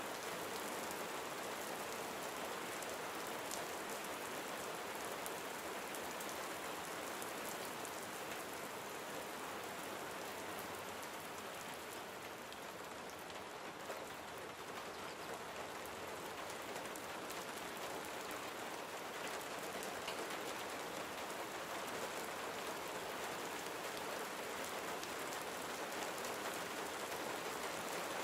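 Gentle steady rain falling, an even hiss of many fine drops on surfaces.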